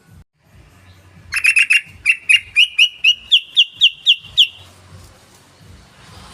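Yellow-vented bulbul (trucukan) calling: a loud run of about fourteen sharp notes starting about a second in, a quick cluster at first, then about four a second, creeping slightly higher in pitch.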